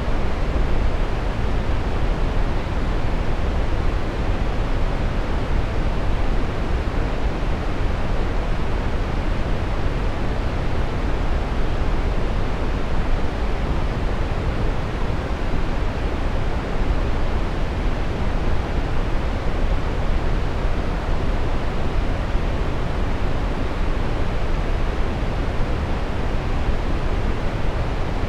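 Steady brown noise: an even, unchanging rush of noise weighted to the deep end, like distant surf, with no events or rhythm.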